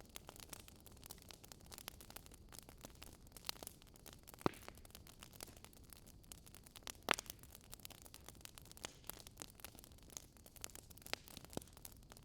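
Faint wood fire crackling: scattered small snaps and pops, with two louder pops about four and a half and seven seconds in.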